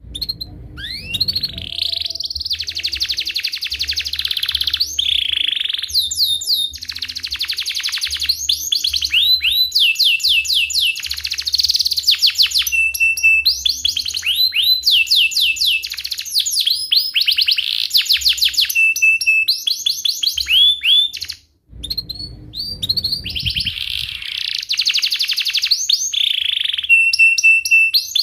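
Domestic canary singing a long, continuous song of fast rolling trills and rapid chirps, broken by a brief pause about three-quarters of the way through.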